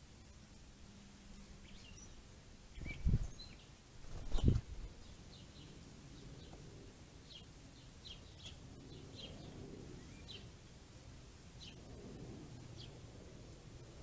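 Small birds giving short, high chip notes, scattered irregularly over a faint outdoor background, with two loud low thumps about three and four and a half seconds in.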